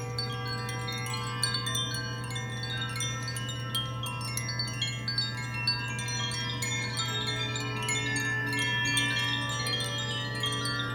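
Chimes tinkling continuously, many small strikes with overlapping high ringing notes, over a steady low drone.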